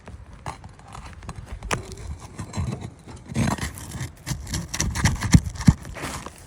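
Irregular knocks and taps of a tool working under a roof shingle, with two sharper strikes near the end.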